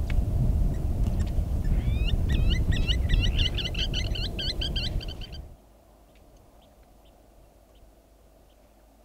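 A loud low rumbling noise with a bird calling a rapid run of repeated, quickly rising and falling whistled notes over it. Both cut off abruptly about five and a half seconds in, leaving a quiet background with a few faint ticks.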